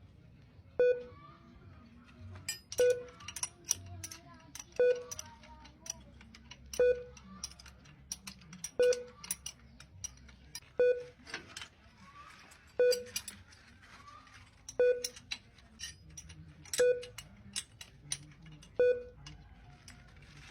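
A short electronic beep repeating about every two seconds, ten times in all, with light clicks and rattles between the beeps.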